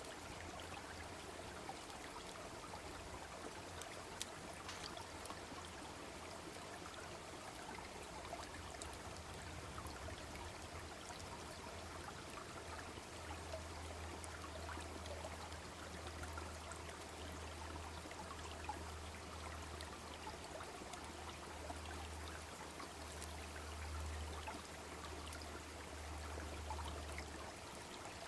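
A babbling brook running steadily, with a few faint sharp crackles from a wood campfire. A low rumble comes and goes through the second half.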